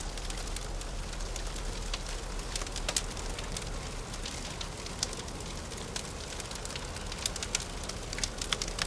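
Wood fire crackling: sharp pops and snaps scattered irregularly over a steady hiss and low rumble.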